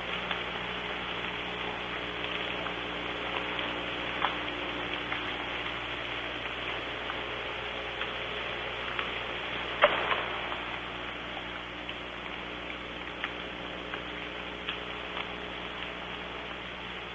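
Soft rain falling on the roof of a barn owl's nest box, heard from inside as a steady hiss with scattered drop ticks and one louder tap about ten seconds in. A faint low steady hum runs underneath.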